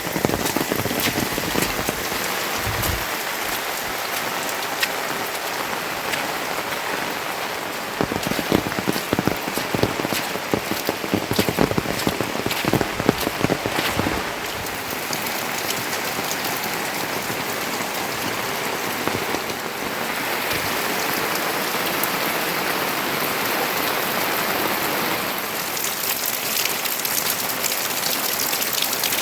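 Steady rain falling, with many separate drops striking close by; the drops come thickest about eight to fourteen seconds in, and the hiss turns brighter near the end.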